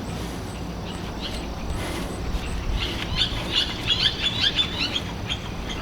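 A small bird singing a quick run of high chirping notes for a couple of seconds about halfway through, over a steady low rumble.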